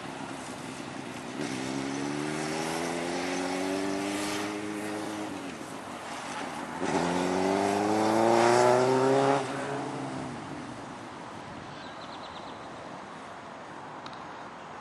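Motorcycle engine accelerating twice as the rider pulls away: its pitch rises steadily through a first run starting about a second and a half in, then through a second, louder run about seven seconds in that cuts off sharply after about nine and a half seconds.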